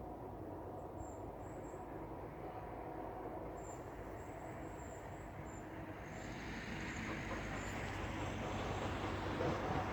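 Low, steady rumble of an approaching vehicle, growing louder from about six seconds in.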